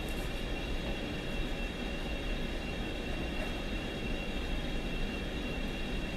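1942 South Bend lathe running steadily: a continuous mechanical hum with a thin, steady high whine.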